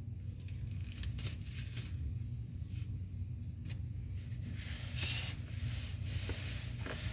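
Quiet handling sounds: a few light clicks and a brief rustle about five seconds in, over a steady low hum and a steady high-pitched whine.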